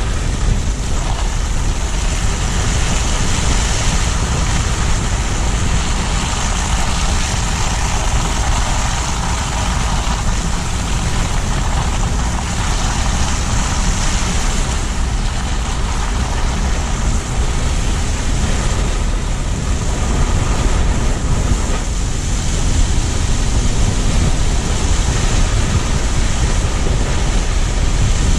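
Steady road noise of a car driving: tyre and engine rumble with a constant hiss, without breaks.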